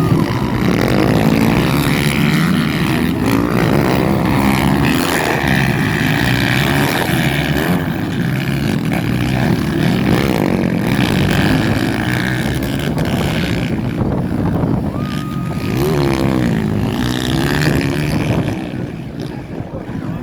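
Motocross bike engines racing, revving up and down in pitch as bikes pass, continuously, easing off a little near the end.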